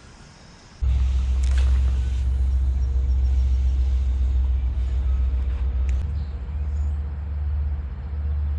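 A steady low rumble that starts abruptly about a second in.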